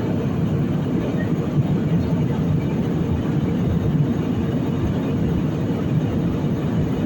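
Steady low rumble of an airliner cabin in flight, the engines and airflow heard from inside the plane.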